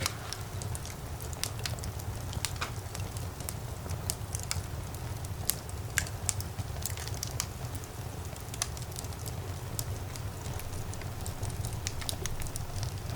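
Wood fire burning in a fireplace: a steady low rumble of the flames, with irregular sharp crackles and pops from the burning logs, several a second.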